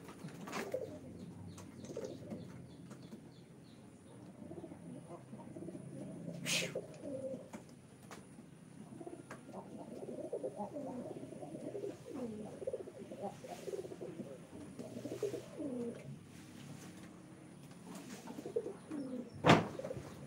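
Several domestic pigeons cooing over one another, overlapping low, gliding coos with no break. A sharp knock sounds about six seconds in and a louder one near the end.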